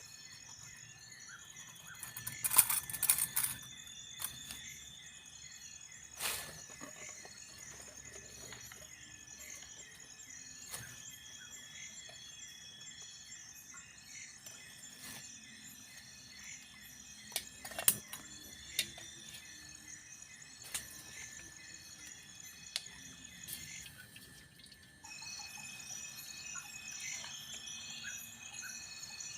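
Crickets and other insects chirping steadily in jungle, with a clatter about three seconds in and a few sharp knocks later. The insect chorus drops out briefly near the end and returns louder.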